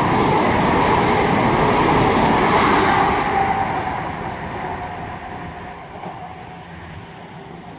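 ScotRail Class 170 Turbostar diesel multiple unit passing through the station at speed. The rush of the train is loudest for the first three seconds, then fades away.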